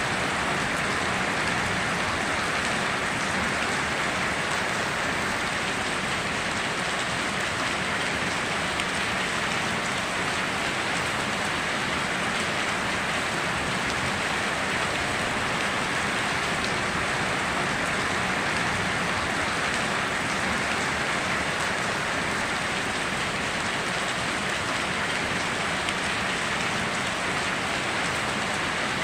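Steady rain falling, an even hiss of many drops with no breaks or separate events.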